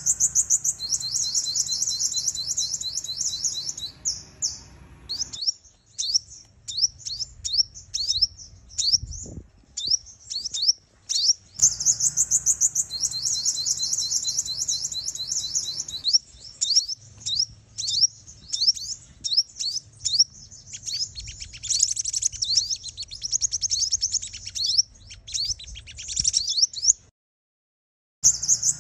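Female sunbird calling in long runs of rapid, high chirps and trills broken by short pauses. These are the calls used as a decoy to excite territorial males. The calling cuts off abruptly near the end and starts again about a second later.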